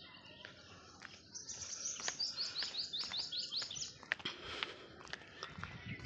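A bird sings a quick run of about ten short, high notes, each sliding down in pitch, over the ticks of footsteps on a brick path. A low rumble comes in near the end.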